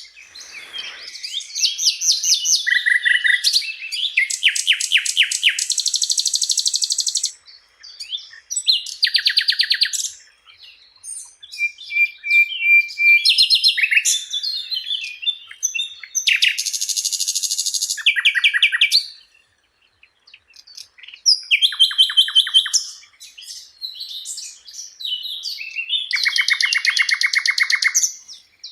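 Sikatan londo (a flycatcher) singing: a varied song of fast trills and rattling chatters, phrase after phrase with short pauses between them.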